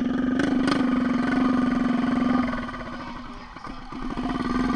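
A minibike's small engine runs loud and steady close by, drops away about halfway through, then swells again near the end. Two sharp clicks come under a second in.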